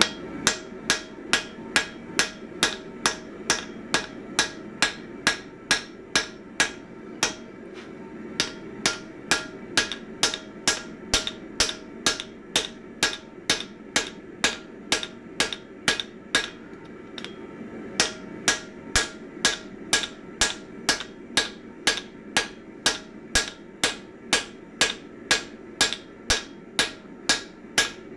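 Hand hammer planishing a hot 1045 steel ax head on the anvil, smoothing out the fuller marks: a steady run of ringing blows, about two a second, with two short pauses. A steady low hum sits underneath.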